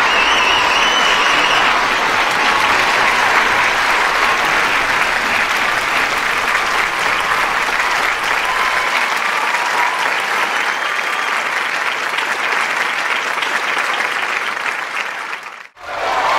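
Large studio audience applauding steadily, with a few faint shouts in the clapping. The applause fades and cuts out briefly less than a second before the end.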